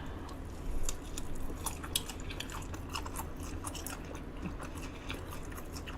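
A person chewing food, with a scatter of small wet clicks and smacks from the mouth.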